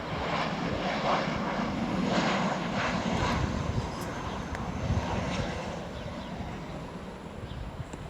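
Ryanair Boeing 737 jet airliner on its landing approach, a steady rushing jet engine noise that is loudest over the first few seconds and then slowly fades.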